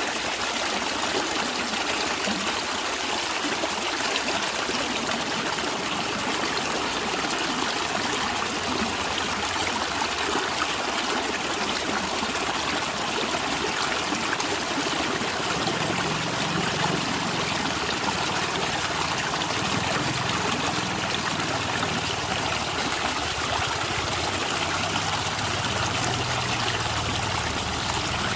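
Natural stream water running and trickling steadily, with a deeper low gurgle joining from about halfway through.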